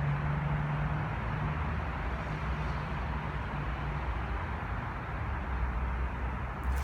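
Engine of a 1960 Jawa 557 motorcycle running, with a steady low engine note over a rushing noise. The note fades and breaks up about a second and a half in, leaving a lower hum.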